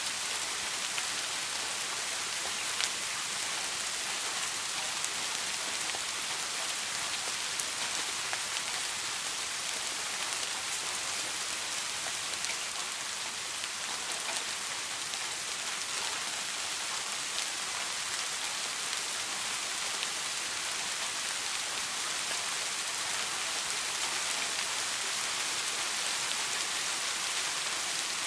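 Soft rain falling steadily: an even hiss with scattered faint drop ticks.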